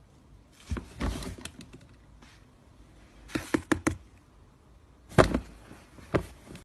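Irregular knocks and thumps in a small room: a few quick hits about a second in, a rapid cluster around three and a half seconds in, and single hits near five and six seconds.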